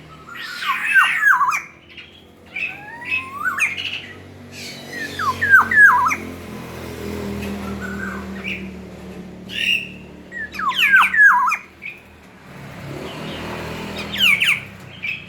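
Black-naped oriole (kepodang) calling loudly in short, varied phrases of quick falling whistled notes, about five phrases with pauses between them.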